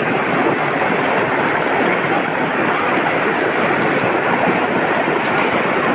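Flash-flooding mountain torrent (a gadhera swollen by heavy rain), a loud, steady rush of fast-flowing water.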